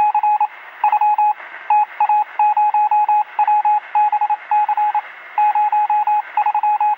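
Electronic beeping: a single steady tone keyed on and off in quick, irregular groups of short and longer beeps, over a constant hiss, like Morse code heard over a radio.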